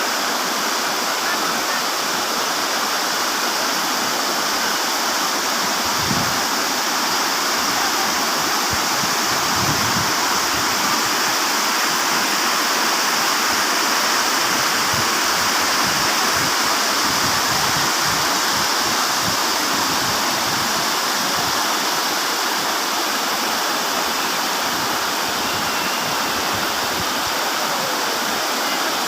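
Waterfall: water pouring and rushing in a steady, loud roar.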